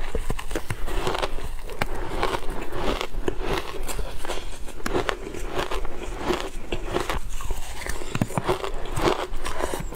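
Ice being bitten and crunched by a person eating it: a dense, irregular run of sharp cracks and crunches.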